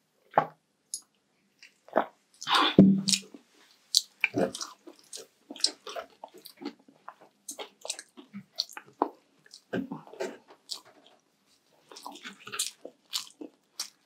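Close-miked chewing of food: a steady run of irregular wet mouth smacks and crunchy clicks, loudest about two to three seconds in.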